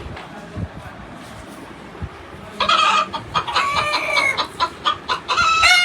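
Chicken clucking and squawking in loud, quick, choppy calls starting about two and a half seconds in, after a quieter stretch of low background noise.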